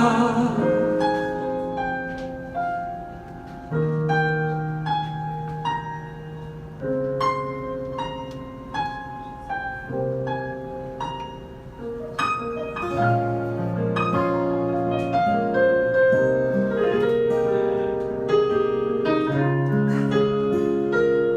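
Instrumental passage of a song played on piano or keyboard, single notes and chords struck one after another, growing fuller and louder about twelve seconds in.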